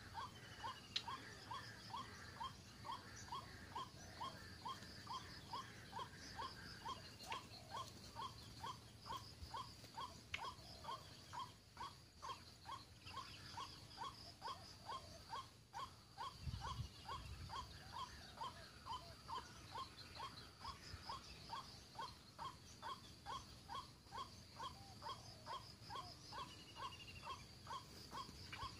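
White-breasted waterhen (ruak-ruak) call played from a bird-lure caller: one short note repeated steadily, about twice a second. Insects chirp faintly behind it, and there is a brief low rumble about sixteen seconds in.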